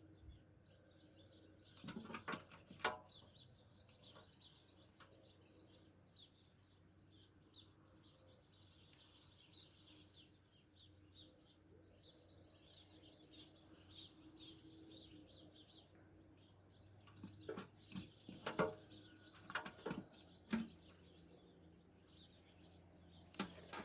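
Faint birdsong, many small chirps carrying on throughout. Two clusters of sharp clicks or knocks stand out, about two seconds in and again in the last quarter.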